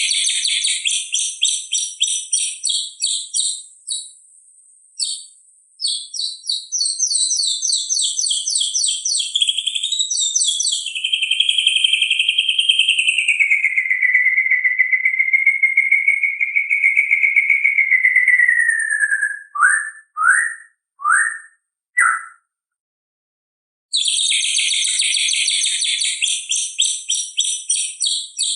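White-rumped shama (murai batu) singing: runs of fast, high repeated trills, then a long wavering whistle in the middle, a few short separate notes and a pause of about two seconds before the fast trills return.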